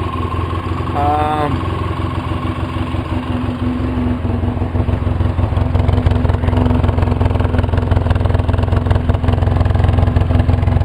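2004 Polaris Sportsman 700 twin-cylinder ATV engine idling steadily, getting slightly louder a few seconds in.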